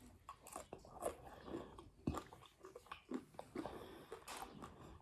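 A person chewing and biting food, with irregular crisp crunches and wet mouth sounds; the sharpest crunch comes about two seconds in.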